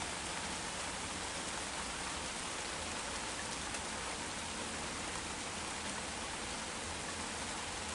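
Heavy rain shower falling steadily, an even hiss.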